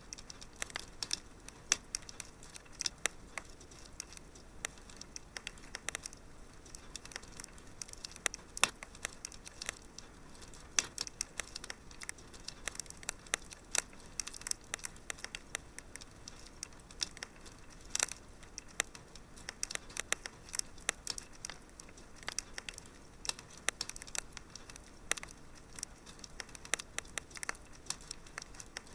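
Wood fire crackling in a fireplace: a steady stream of irregular sharp pops and snaps over a faint hiss.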